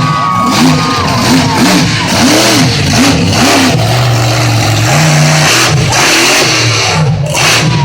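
Monster truck engine running loud, revving up and down several times in quick succession, then holding a steady pitch for about a second before revving again.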